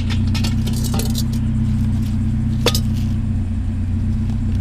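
Vehicle engine idling steadily, with a few sharp clinks over it, the loudest nearly three seconds in.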